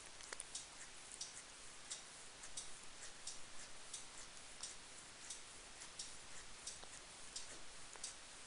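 Cat licking its fur while grooming: a run of soft, sharp wet clicks, about three a second and slightly irregular.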